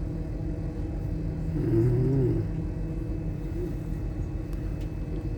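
Passenger train running, a steady rumble and hum heard from inside the carriage, with a short vocal sound about two seconds in.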